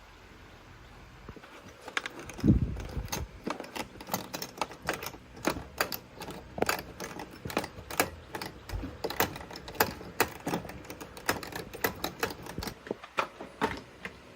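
Hand tools clicking and tapping on metal motorbike parts during disassembly: irregular sharp clicks, a few a second, with a heavier thump about two and a half seconds in.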